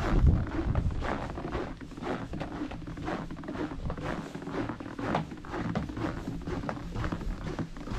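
Footsteps, about two steps a second, with a low rumble of wind buffeting the microphone at the start.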